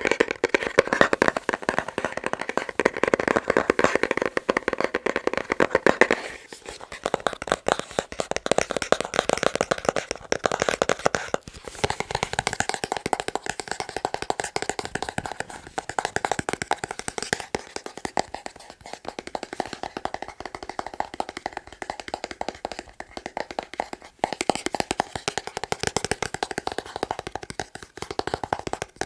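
Fast fingertip tapping on boxes, a dense run of quick clicks. The tone changes several times, about six seconds in, around twelve seconds and again near twenty-four seconds, as the tapping moves to a different box or surface.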